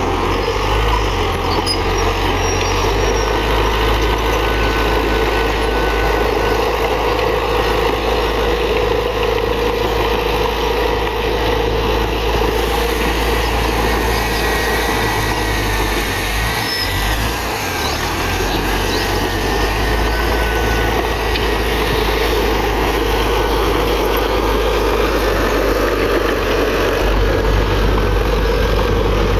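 Heavy diesel earthmoving machinery running steadily under load, with a brief dip in level about 17 seconds in.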